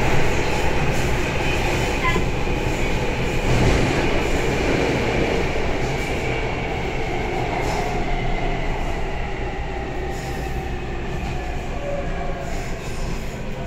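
Taipei Metro Bannan line train's traction motors whining, the pitch falling gradually as the train slows, over a steady low rumble of the running gear.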